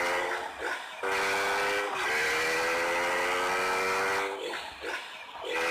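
Motorcycle engine held at high revs, its note slowly climbing, with short breaks where the throttle is cut several times.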